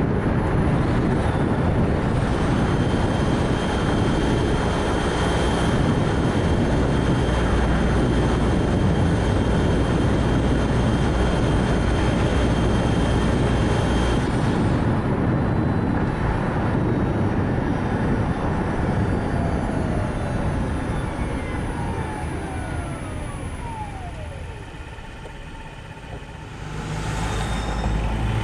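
Road and wind noise from a Nissan Note e-POWER on the move, a steady rush with a faint high whine through the first half. Past the middle the noise fades as the car slows, with a whine falling in pitch, then it swells again as the car picks up speed near the end.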